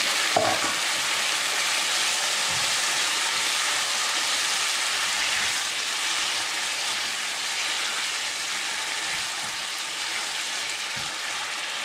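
Marinated pork liver sizzling in hot oil in a nonstick wok as it is stirred with a spatula: a steady, dense sizzle that eases a little in the second half.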